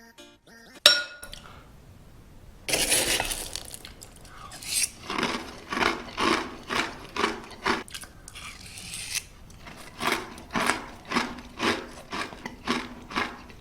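A spoon clinks once against a bowl, then a mouthful of Post granola is crunched in steady chewing, about two crunches a second.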